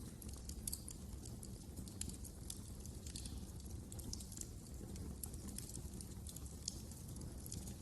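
Wood fire in a fireplace crackling: irregular sharp pops and snaps over a low steady rumble of the burning fire.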